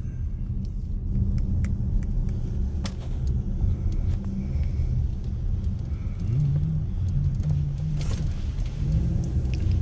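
Car running as it rolls slowly: a steady low rumble with a few light clicks.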